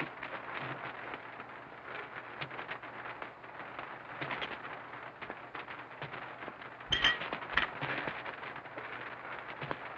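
Hiss and crackle of an old optical film soundtrack, with scattered small clicks and a louder short noise about seven seconds in.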